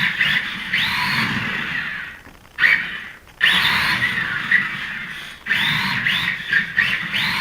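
Electric motor of an RC car whirring in spurts of a few seconds, its whine rising and falling in pitch as the throttle is worked, cutting out briefly twice.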